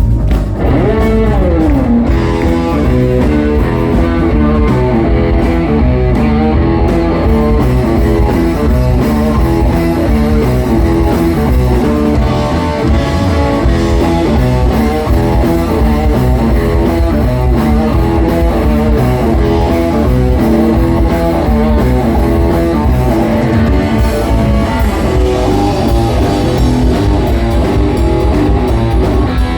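Live blues-rock band playing an instrumental passage of a slow blues: lead guitar over bass and drums, with a guitar note sliding down in pitch about a second in.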